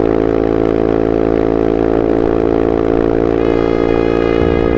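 Yamaha Mio i 125 scooter's single-cylinder fuel-injected engine pulling hard at a steady pitch while riding, running on an upsized 135cc injector.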